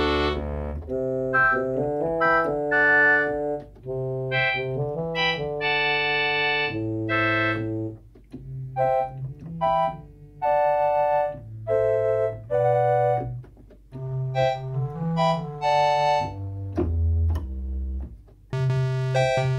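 Yamaha PSR-175 portable keyboard playing one of its preset voices, a keyboard sound somewhere between electric piano and organ, as a run of notes and chords with short pauses between phrases. A brighter, fuller preset comes in near the end.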